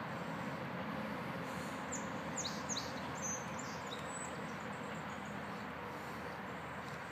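A small bird chirping: a handful of short, high, falling chirps starting about two seconds in and stopping about two seconds later, over a steady outdoor background hiss.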